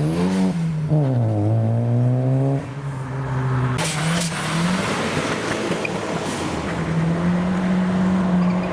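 Modified car engine revving as it drives off, its pitch climbing and falling, then cutting back sharply about two and a half seconds in. A steady engine note holds near the end.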